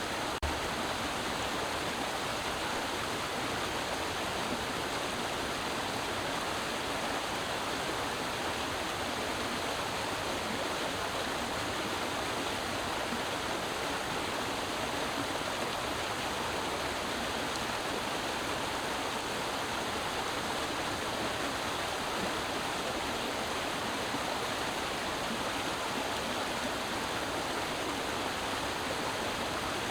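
Creek water running and splashing over rocks in a steady rush, with one faint knock just after the start.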